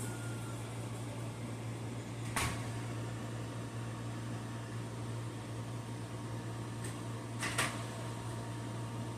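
Steady low machine hum, with two short sharp noises, about two and a half seconds in and again near the end.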